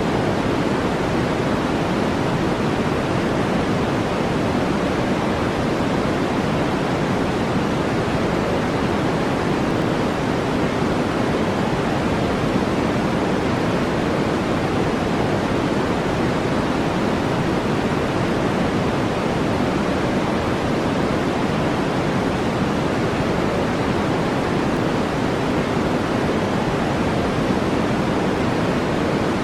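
Steady synthetic noise track played for relaxation or sleep: a deep, even hiss with no breaks or changes.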